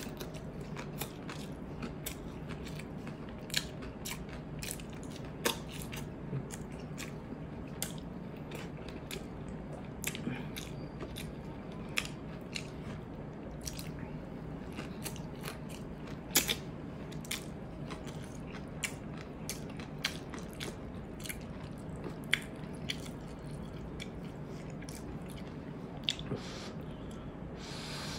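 Close-up mukbang eating sounds: a person chewing mouthfuls of rice and dried anchovies (dilis), with many irregular wet mouth clicks and smacks and a few louder ones.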